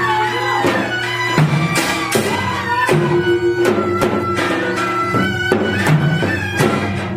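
Korean traditional folk music accompanying a Jindo drum dance: repeated drum strokes under a sustained melody that slides and bends in pitch.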